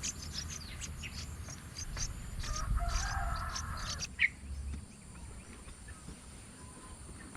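A bird calling, with one short sharp cry about four seconds in, over faint taps and rustling.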